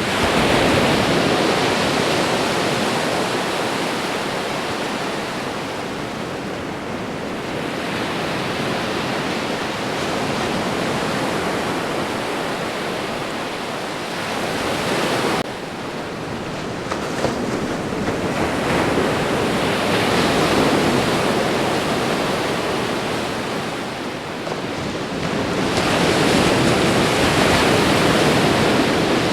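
Ocean waves breaking in a continuous wash of surf, swelling and ebbing with a surge roughly every eight to ten seconds. The level drops suddenly about halfway through.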